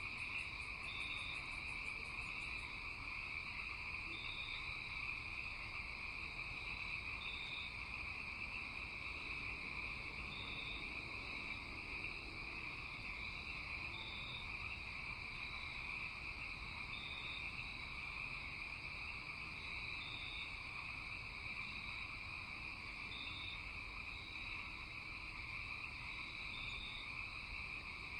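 Night-time chorus of calling insects: a steady high trill, with short higher chirps repeating every second or two. Faint rapid ticking high up stops a couple of seconds in.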